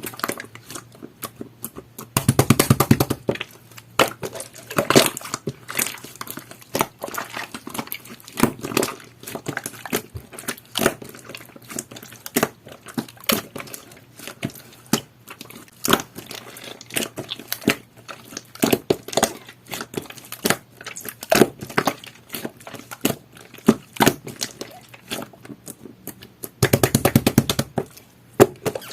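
Jelly-textured slime being kneaded, pressed and stretched by hand, giving sticky clicks and small pops. Two bursts of rapid clicking come about two seconds in and again near the end.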